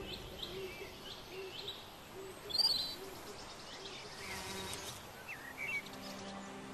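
Birds chirping in short scattered calls, with one louder twitter about two and a half seconds in, over a soft low hooting note that repeats about twice a second.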